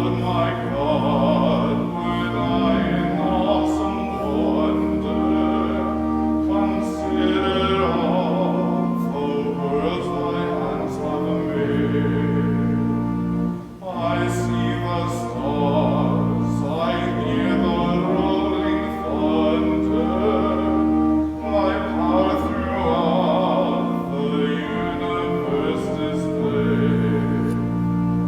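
Classical-style solo singing with a wide vibrato over sustained, held low accompaniment chords, in two long phrases with a brief break about halfway through.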